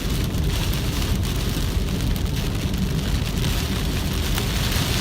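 Heavy rain pelting a moving car, with a steady low road rumble and tyres on a flooded road, heard from inside the cabin; the windshield wipers sweep on their fastest setting about once a second.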